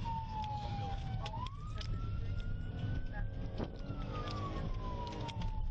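Police car siren on a slow wail, its pitch falling, then rising for about two seconds and falling again, over the steady low rumble of the patrol car driving. The siren is on because the police pursuit is starting.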